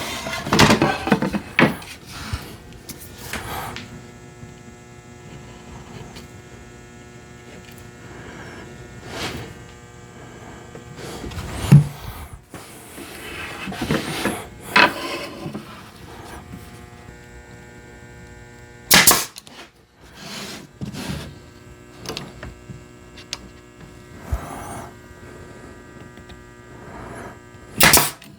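Woodworking sounds: wooden pieces handled and rubbing together, then a steady electric hum with several steady tones, broken by a few sharp knocks, the loudest near the end.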